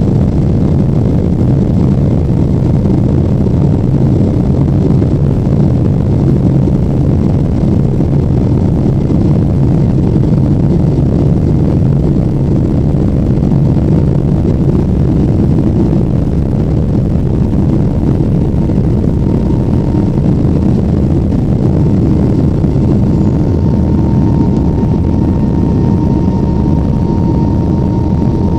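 Steady cabin noise inside a Boeing 777-300ER in flight: the rushing of air along the fuselage and the low drone of its GE90 engines, even and unchanging. A faint steady whine joins it about two-thirds of the way through and grows a little stronger near the end.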